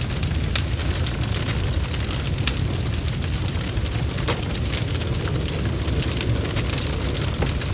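Wood fire crackling: irregular sharp pops and snaps over a steady low roar of the flames.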